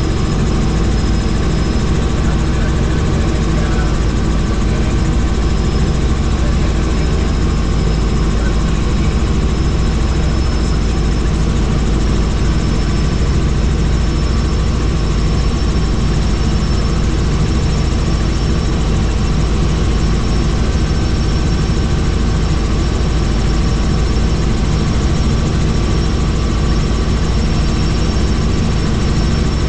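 Helicopter in steady flight: a constant, heavy rotor and engine drone with a steady high whine over it.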